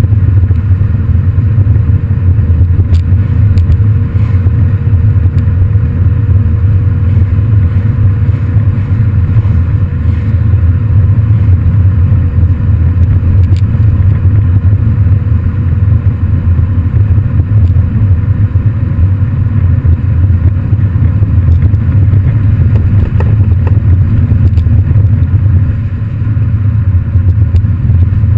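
Exhaust of a modified MINI Cooper GP, a loud, steady low rumble held at an even pitch without clear revving up or down.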